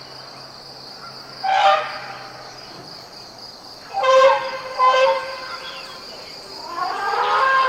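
Elephants trumpeting: four loud, brassy calls, one about 1.5 s in, two close together around 4 to 5 s, and a last gliding one near the end, over the steady chirring of insects.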